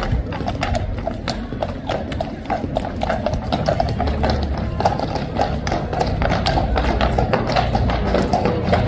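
Hooves of a troop of horses clip-clopping at a walk, a dense, uneven patter of many hoofbeats.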